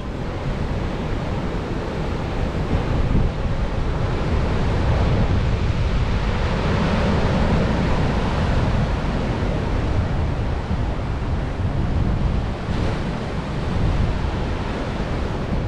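Ocean surf breaking heavily in rough, typhoon-driven seas, with strong wind buffeting the microphone as a steady low rumble.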